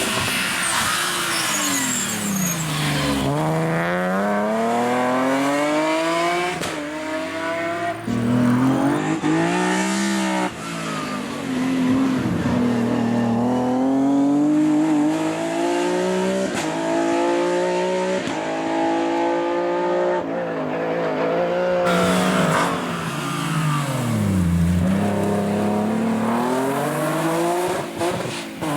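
Racing car engines revving hard on a slalom course, the note climbing under acceleration and dropping sharply on braking and downshifts, over and over, with several passes cut one after another.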